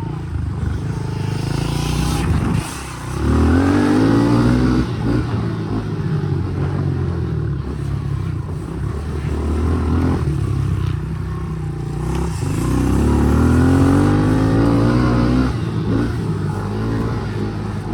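Small dirt bike engine running on the track, revving up and rising in pitch twice, about three seconds in and again about twelve seconds in, then easing off between.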